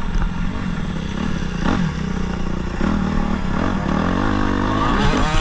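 Motocross bike engine revving up and down through the gears, its pitch rising and falling several times.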